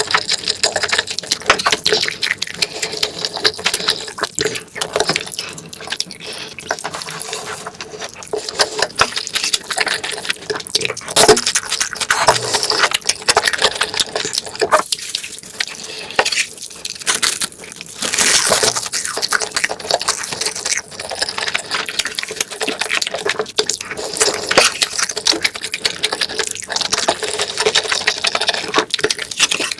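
Close-miked wet chewing and slurping mouth sounds from eating stir-fried octopus and rolled egg: a dense run of smacks and moist clicks, going on throughout.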